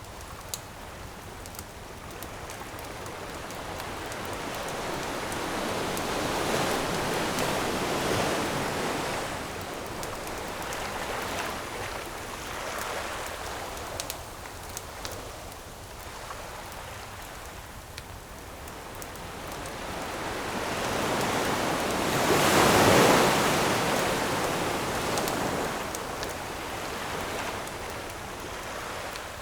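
Ocean waves washing onto the shore, swelling twice, the second wave the louder, over a few sharp campfire crackles.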